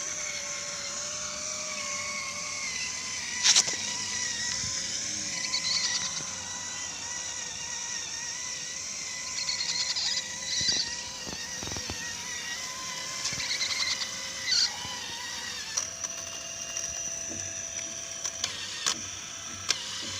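Small electric motor running with a steady high whine, with scattered clicks and short squeaks from the moving parts.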